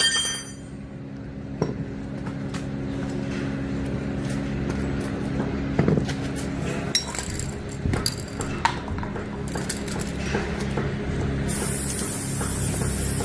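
Small metal parts clinking and tapping now and then, some with a short ring, over a steady low hum. Near the end comes a spraying hiss lasting about two seconds.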